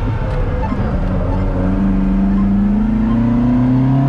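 Moskvich-408's four-cylinder engine accelerating, its note rising steadily in pitch from about a second and a half in.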